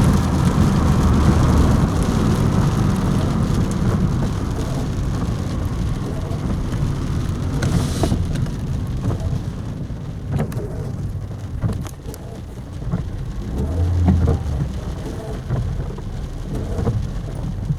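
Rain falling on a car's roof and windscreen, heard from inside the moving car over the low rumble of the Honda Jazz's engine and tyres. The rain is heaviest at first and eases about halfway through, leaving scattered ticks of single drops.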